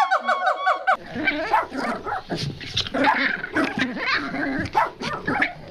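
Quick, evenly repeated pitched notes for about a second, then an abrupt change to many animal cries overlapping one another, high and wavering.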